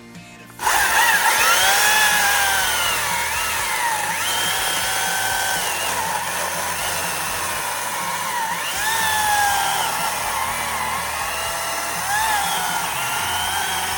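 STIHL MSA 300 C-O battery chainsaw running in power mode. It starts up suddenly about half a second in and runs at high speed, its motor and chain whine rising and falling over and over.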